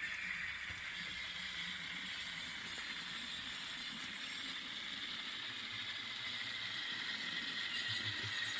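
N-scale ScaleTrains GE ET44 model diesel locomotive running on the track, a steady mechanical whirr and rattle.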